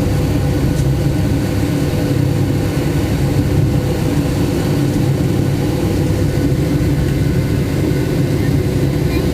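Steady drone of a Boeing 757-200's engines and rushing air heard inside the passenger cabin during the climb after takeoff, mostly low with a steady hum running through it.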